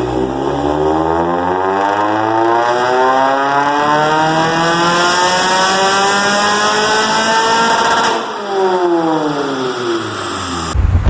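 Car engine revving up in one long, smooth climb for about eight seconds, then the revs falling away. Just before the end it cuts abruptly to wind noise on the microphone.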